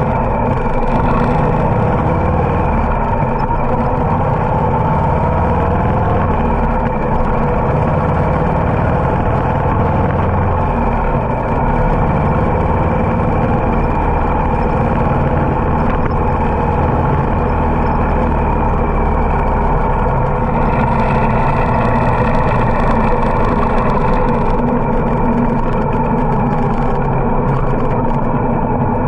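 Harley-Davidson motorcycle engine running steadily while riding, with small rises and falls in pitch.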